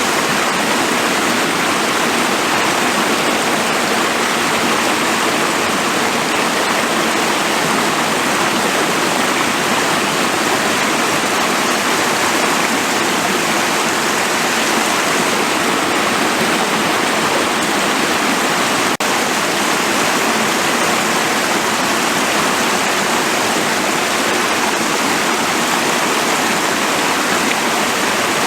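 Forest stream rushing steadily over stones, an even wash of water noise, with a single brief click and dropout about two-thirds of the way through.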